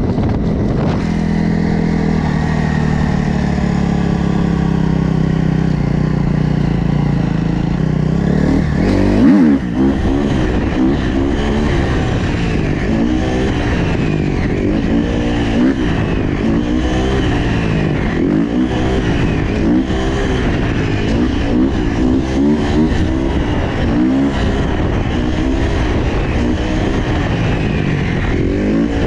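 Motorcycle engine running steadily, then revving up and down over and over, with a loud jolt about nine seconds in.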